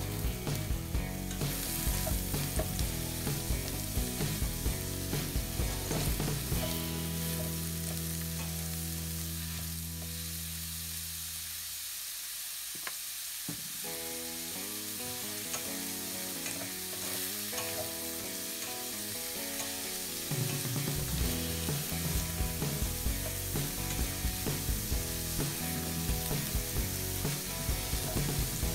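Diced carrots, celery and onion sizzling in hot oil in a stainless-steel pan, stirred and scraped through the browned bits with a plastic spatula.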